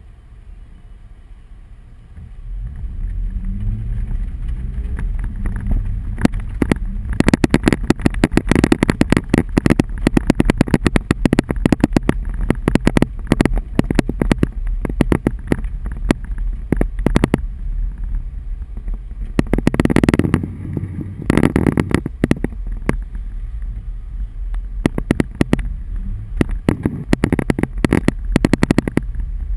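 Hailstones pelting the roof and windshield of a moving vehicle, a rapid clatter of hard hits that starts a few seconds in, over the low rumble of the engine and road.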